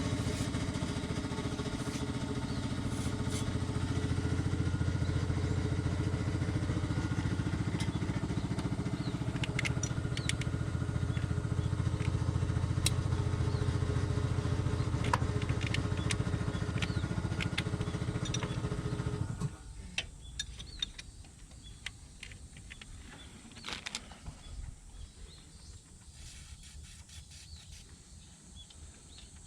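Mitsubishi Pajero's 6G74 V6 engine idling steadily, then stopping abruptly about two-thirds of the way through. Afterwards only a few faint clicks are heard.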